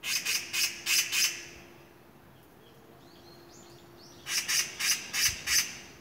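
A bird calling in two series of about five harsh, rasping notes each, the second series starting about four seconds in. Fainter, higher whistled notes sound in the gap between them.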